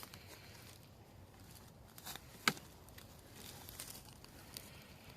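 Faint rustling and scuffing as the wooden top bar hive is set in place and steadied, with one sharp knock about two and a half seconds in.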